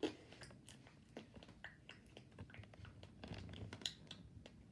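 Slime being squished and poked by hand: faint, irregular small clicks and pops.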